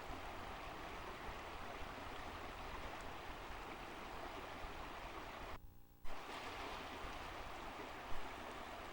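Steady, even rush of flowing water at a waterfall. It cuts out for about half a second roughly two-thirds of the way through, then comes back with a click.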